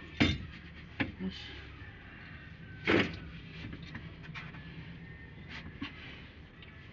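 A few sharp knocks and clanks over a low steady hum. The loudest comes about three seconds in.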